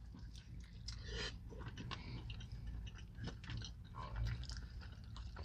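Faint close-up chewing of barbecue chicken, with a few soft clicks scattered through it over a low steady hum.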